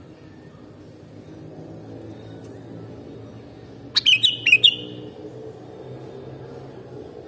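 Sooty-headed bulbul (kutilang) giving a short, loud burst of about four quick whistled chirps about four seconds in, over a steady low background rumble.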